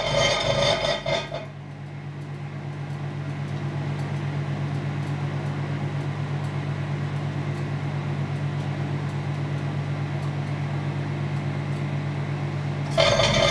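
Microwave oven running with a plasma ball burning inside: a loud buzz cuts off about a second in, leaving the oven's steady low hum, and the loud plasma buzz starts again near the end.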